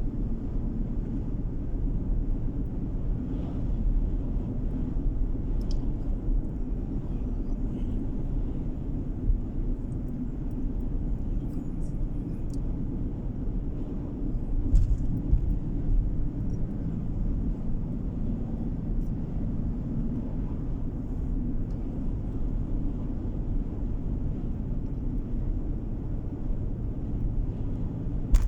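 Car driving along a road: a steady low rumble of engine and tyre noise heard from inside the car, with a few faint ticks.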